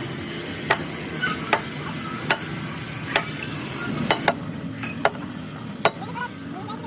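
Sharp, irregular taps or clicks, about ten of them a half-second to a second apart, over a steady hiss and low rumble, typical of hand work at a workshop bench.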